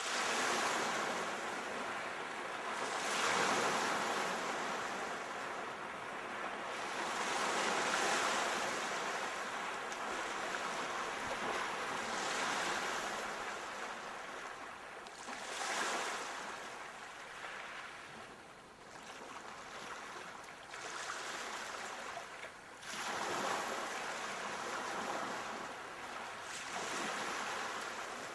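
Sea waves breaking and washing on a shore, a steady hiss of surf that swells and eases every few seconds.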